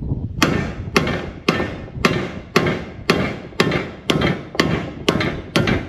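Hammer blows, eleven steady strokes about two a second, beating on a stuck part of a farm auger assembly to drive it loose.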